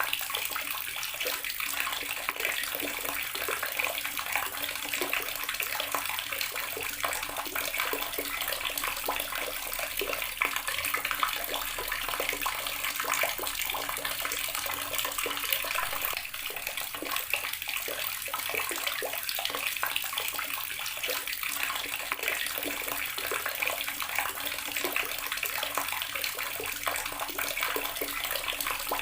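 Water running steadily from an outdoor tap and splashing, an unbroken hiss with a spatter of small irregular splashes.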